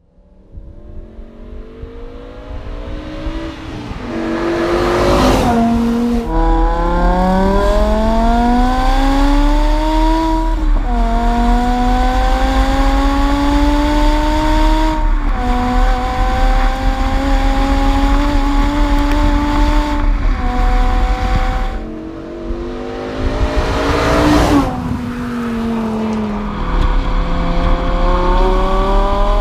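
BMW M5 E60's V10 engine through a resonator-delete exhaust with X-pipes and a Schmiedmann muffler, accelerating hard through several upshifts: the note climbs in pitch, then drops at each gear change. It eases off about three-quarters of the way through, then pulls again, rising near the end.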